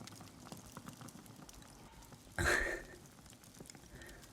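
Faint, scattered crackling of a fireplace fire, with one brief louder rustle close to the microphone about two and a half seconds in.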